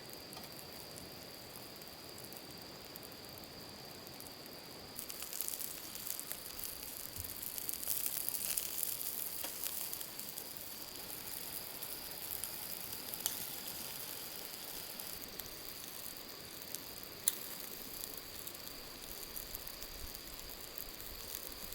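Food sizzling, starting about five seconds in and loudest soon after, over a steady high trill of night insects.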